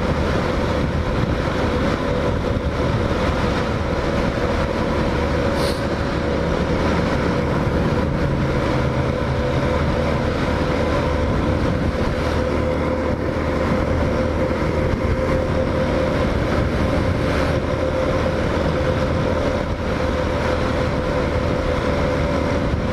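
Hawk 250 single-cylinder motorcycle engine running at a steady cruising speed, with wind rushing past the rider's microphone. The engine note holds even throughout, with no shifting or revving.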